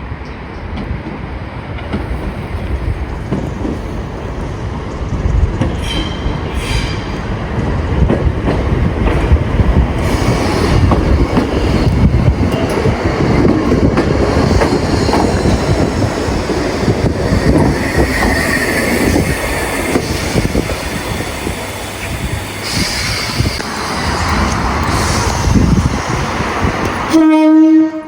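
Train passing, a loud steady rush of wheels on rail that builds and holds for most of the time, ending with one short, loud horn blast near the end.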